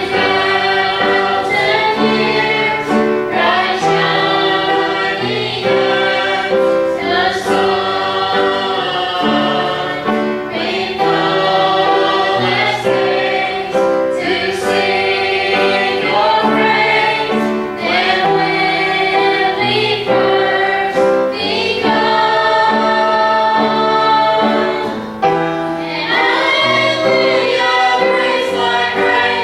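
Gospel choir singing with piano accompaniment, a continuous sung passage.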